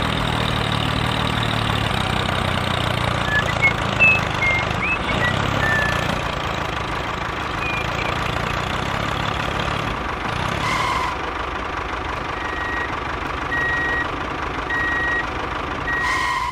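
Tractor engine running steadily, with short beeps about once a second in the last few seconds.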